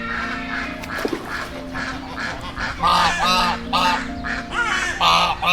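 Geese honking: a quick series of loud honks starting about halfway through.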